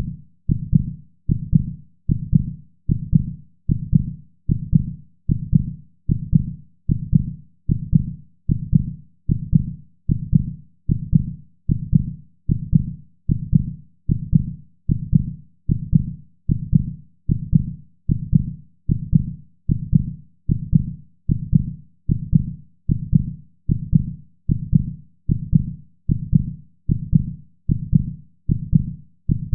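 Slow, steady low thumping pulse, one beat a little faster than once a second, each beat dying away quickly, like a heartbeat sound effect.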